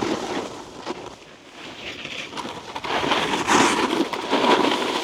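Snowboard sliding and scraping over icy snow, a rough hiss that grows louder about halfway through.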